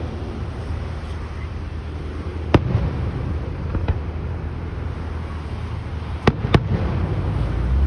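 Fireworks bursting during a display: about four sharp bangs, the last two close together, over a steady low rumble.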